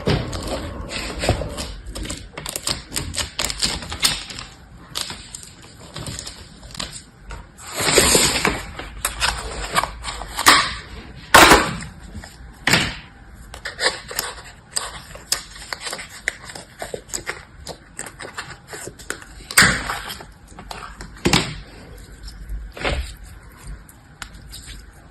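Hands handling small objects up close: an irregular run of clicks and taps with rustling, and a few louder knocks.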